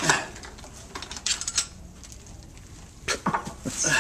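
Steel screwdrivers prying and scraping at wooden plugs lodged inside hole saws: irregular metal clinks and scrapes in short clusters, near the start, about a second in, and again in the last second.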